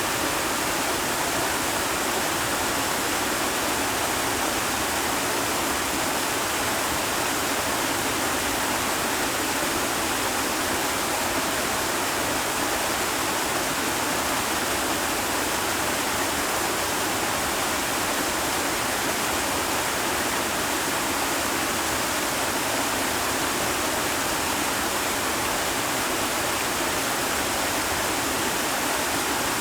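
Steady, unbroken rushing water noise.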